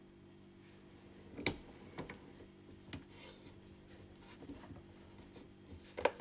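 A few short, sharp clicks and light knocks from handling the plastic parts of a Delta coffee machine during setup, over a faint steady hum.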